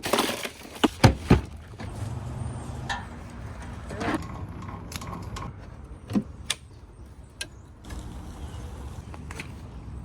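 Clunks and knocks of gear being handled aboard a small boat, three sharp ones close together about a second in and a few scattered later, over a low steady rumble.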